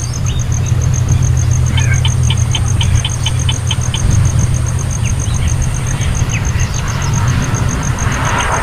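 A steady low hum, like a motor running, with a fast, even high ticking throughout and brief clusters of short high chirps about two to three seconds in and again near the end.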